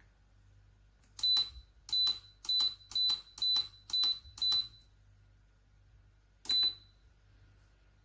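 Electric kettle's control buttons being pressed, each press answered by a short high beep: seven quick beeps about two a second, then one more after a pause of nearly two seconds.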